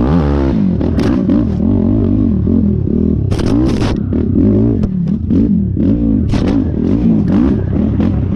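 Yamaha YFZ450R quad's single-cylinder four-stroke engine revving up and down about twice a second under hard riding over rough whoops. Sharp knocks and clatter from the chassis come through several times.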